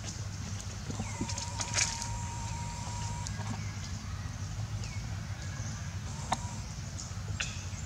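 Outdoor ambience of birds calling: a thin whistled note held for about two seconds starting about a second in, short falling chirps, and a few sharp clicks, over a steady low hum.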